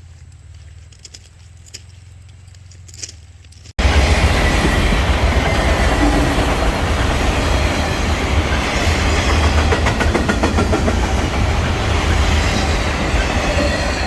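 A freight train passing close by, starting abruptly about four seconds in: a loud, steady rumble with rows of rapid clicks from the wheels running over the rail joints. Before it there are only a few faint clicks.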